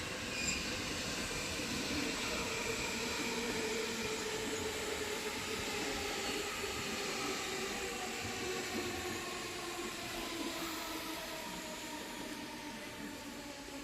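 A steady running noise from a machine or vehicle, with a whine of several tones that slowly falls in pitch, as when a motor winds down.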